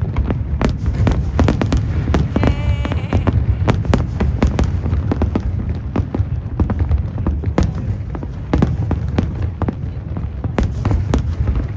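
Aerial fireworks going off in quick, irregular succession, with many sharp bangs and crackles over a continuous low rumble of distant bursts.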